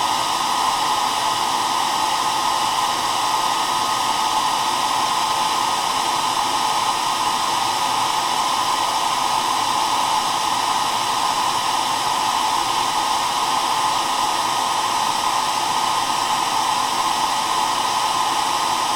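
Hair dryer running steadily, an even rushing noise with a hum centred around 1 kHz.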